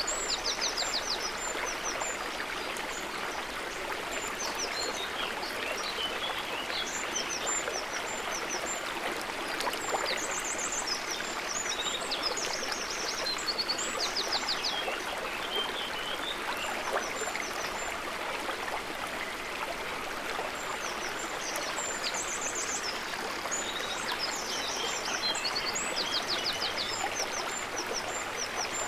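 A river or stream running steadily over rocks, with small birds chirping and trilling above the water, in short rapid series every few seconds.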